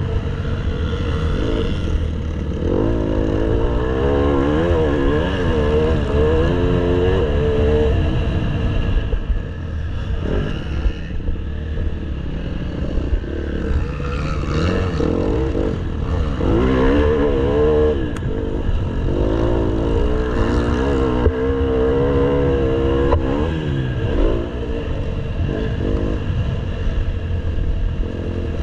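Motocross bike engine revving up and down over and over as the rider works the throttle around the track, its pitch rising and falling every second or two.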